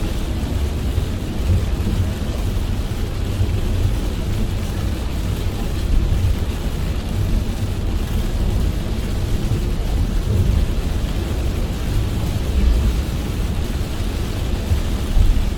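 Heavy rain on a moving car, with a steady low rumble of tyres and road underneath and a few brief swells in the rumble.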